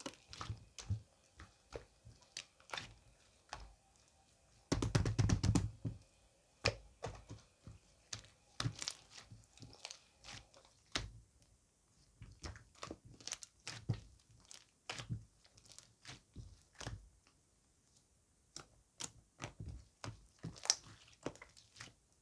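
Irregular small clicks, knocks and crunches in a small room, with a quick flurry of rapid clicks about five seconds in.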